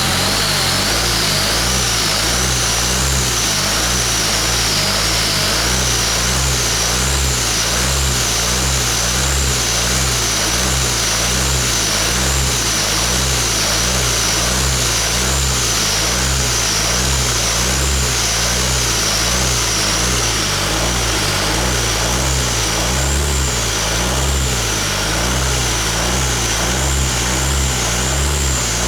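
Hyundai D4CB 2.5-litre four-cylinder common-rail turbodiesel running steadily, with a pulsing low hum and a high whine that wavers slowly in pitch.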